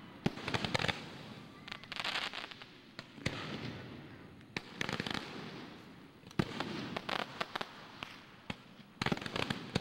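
Aerial fireworks shells bursting at a display: sharp bangs mixed with spells of dense crackling every second or two.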